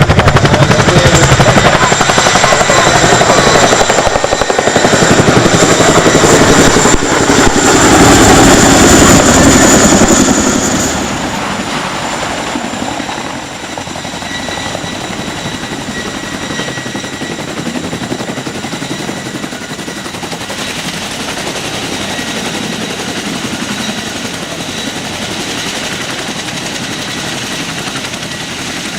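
Boeing CH-47 Chinook tandem-rotor helicopter running: fast, even rotor chop with a steady high whine over it. It is loud at first, then falls off to a lower, steady level about eleven seconds in.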